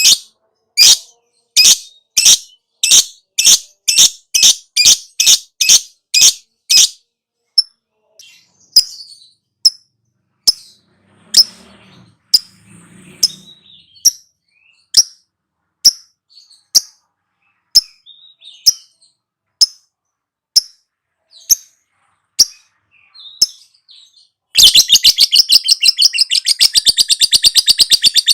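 Lovebird calling: loud, sharp, high calls about two a second for several seconds, then scattered softer chirps. Near the end it breaks into a fast, continuous chattering trill, the long 'ngekek' chatter that lovebird keepers prize.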